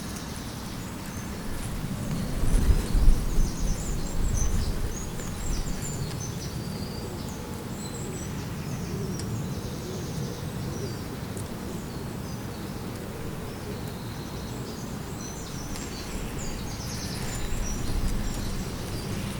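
Wind gusting against the microphone as a low rumble, strongest about three seconds in and again near the end, with small birds chirping and singing high and faint in the background.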